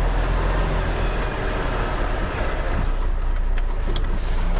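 Heavy goods vehicle's diesel engine running steadily at low revs as the lorry manoeuvres slowly into a parking bay, with a few faint clicks about three to four seconds in.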